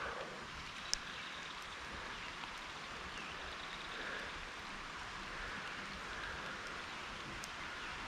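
Steady rain falling, an even hiss of drops, with one sharp tick about a second in.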